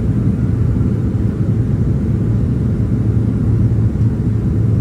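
Steady low rumble inside a Boeing 767-300ER airliner's cabin in flight, from engine and airflow noise, with a constant low hum.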